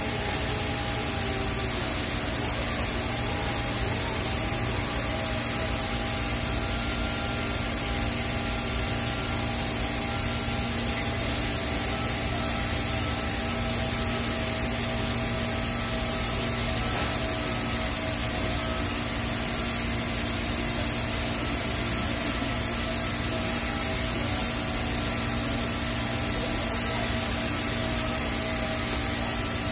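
TIG welding arc on stainless steel pipe running a root pass, a steady hiss with a faint hum under it.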